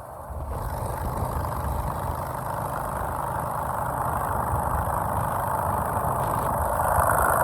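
Motorcycle engine running steadily, growing slowly louder.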